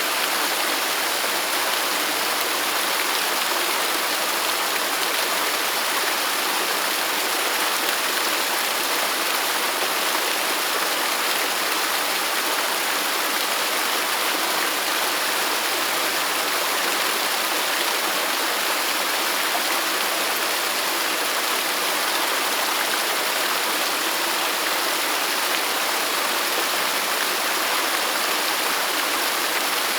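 Waterfall: falling water rushing and splashing steadily, a full hiss without breaks or changes.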